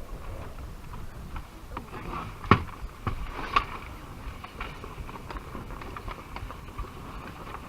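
Handling and knocking sounds aboard a small sailing boat: scattered light clicks and taps, with two sharper knocks about two and a half and three and a half seconds in, over a low rumble of wind on the microphone.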